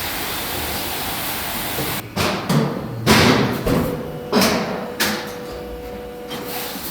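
Factory workshop noise: a steady machine hiss, then a run of sharp metallic knocks and clanks, each ringing briefly, with a faint steady hum under the later ones.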